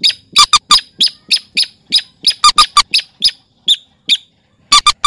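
Rail calls from a bird-lure recording of mandar and sintar: a rapid series of short, harsh calls, about four a second, with a brief pause near the end before a quick pair.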